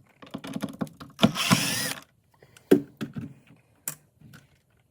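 A cordless drill-driver runs briefly, a little over a second in, backing out a screw that holds a refrigerator shelf. Scattered clicks and knocks from the shelf and its fittings being handled come before and after.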